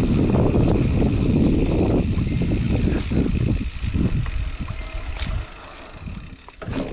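Specialized Chisel mountain bike rolling over a rough dirt trail: tyres rumbling and the bike rattling over bumps. The rumble fades about four to five seconds in as the bike slows.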